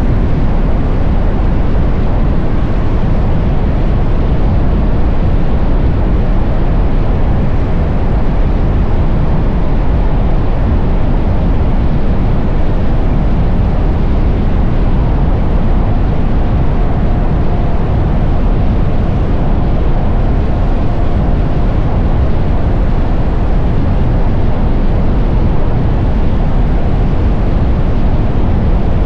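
Steady wind roar buffeting an action-camera microphone on a moving motorcycle, heaviest in the low range. A faint steady whine comes in about halfway through.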